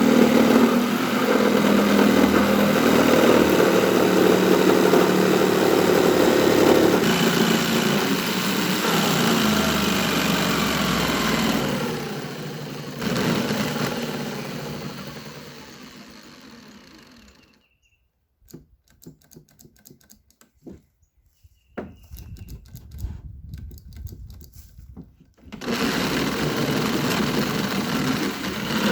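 A motor or engine running steadily. It fades out about halfway through, leaving near silence broken by scattered small clicks, and starts up again near the end.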